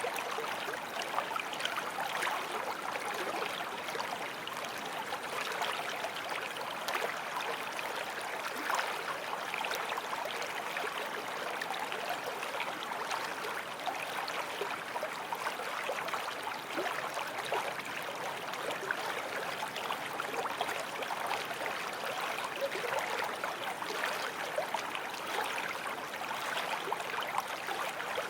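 Forest stream flowing steadily over stones, a continuous babbling and splashing of water.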